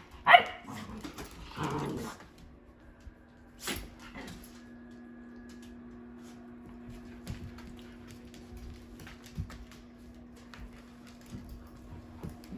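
Dog growling and barking in play, a few loud bursts in the first two seconds. After that a steady low hum runs on, with scattered small knocks and one sharp click.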